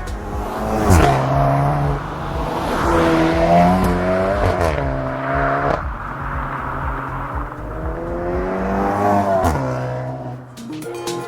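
Exhaust note of a Skoda Octavia RS turbocharged four-cylinder through an XForce VAREX valved cat-back exhaust under hard acceleration. The engine pitch climbs and drops sharply at gear changes, about a second, four and a half seconds and nine and a half seconds in, then eases off near the end.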